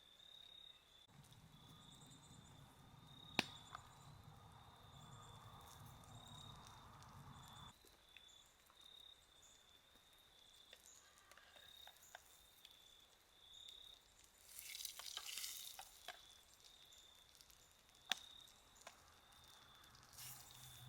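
Faint outdoor cooking sounds: an insect trilling steadily on one high note, with food sizzling softly and a short louder hiss about fifteen seconds in. Two sharp clicks, one a few seconds in and one near the end, stand out as the loudest sounds.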